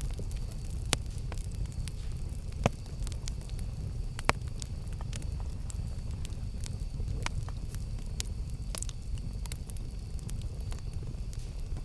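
Campfire crackling: a steady low rumble of burning under frequent sharp snaps and pops, with three louder pops in the first half.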